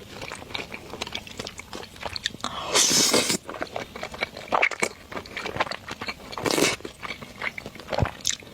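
Close-miked mouth sounds of a person eating stir-fried rice noodles: wet chewing and smacking with many small clicks, and two louder, longer noisy bursts, about three seconds in and near seven seconds.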